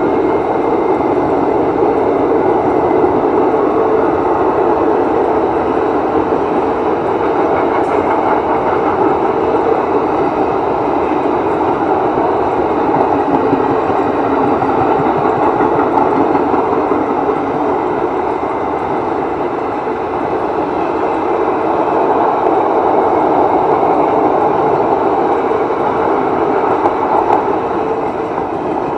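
Passenger coaches of an Indian Railways express train passing at speed: a loud, steady rumble of steel wheels running on the rails.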